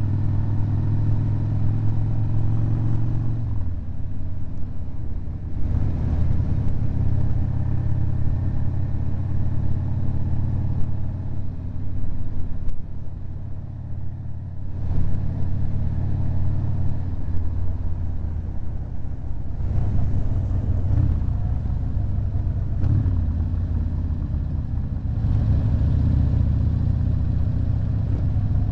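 Harley-Davidson V-twin motorcycle engine running at motorway cruising speed, a steady low rumble that drops and picks up again several times through the ride.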